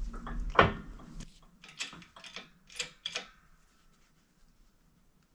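Metal tools and press pieces being handled: a handful of separate clicks and knocks, the loudest about half a second in, dying away after about three seconds.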